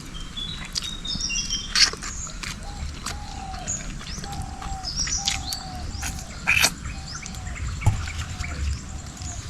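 Forest birds calling: high chirps in the first couple of seconds, then a lower short note repeated steadily, a little under twice a second, each note dropping slightly. Sharp clicks are scattered throughout, the loudest about two seconds in and again past six seconds.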